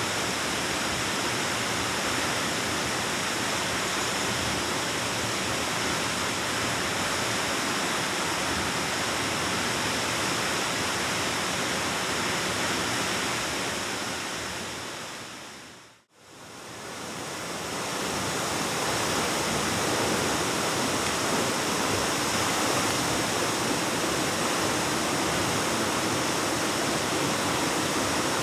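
Waterfall rushing as a steady, full hiss of falling water. It fades out to silence about halfway through, then fades back in.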